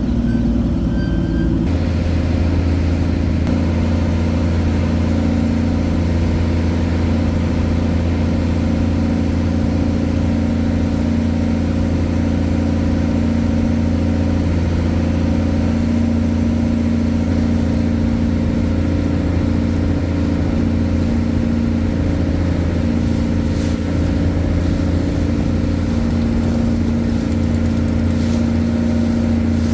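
Motorboat engine running steadily at constant speed, a loud, even drone whose low hum strengthens a little under two seconds in and then holds.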